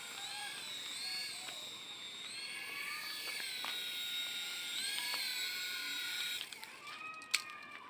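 Toy remote-control helicopter's small electric rotor motors whining, the pitch rising and falling as the climb button is pressed and eased off. About six and a half seconds in the whine drops lower and quieter, and a sharp click follows shortly after.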